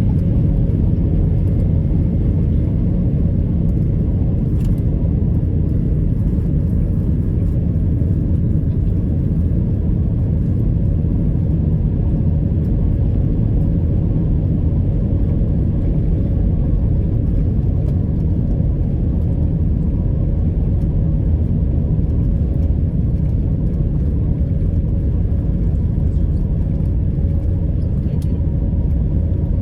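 Airbus A319 jet engines and airflow heard from inside the cabin: a loud, steady low rumble with a steady whine running through it.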